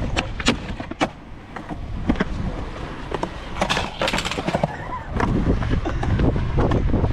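Skateboard rolling with a low rumble, broken by several sharp clacks and smacks of the board hitting the ground. The rolling grows louder in the last couple of seconds.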